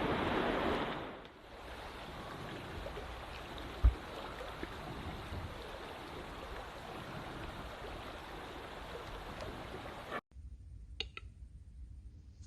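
Steady rushing noise with a single low thump about four seconds in. The noise cuts off abruptly near the end, leaving a few faint clicks.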